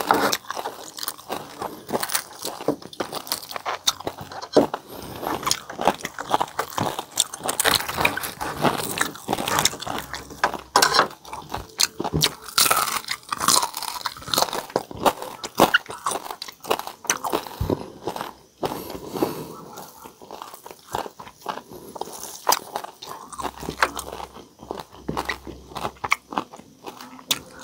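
Close-up chewing and biting of crispy pata (deep-fried pork knuckle), with many sharp crunches from the crackling skin coming thick and irregular throughout.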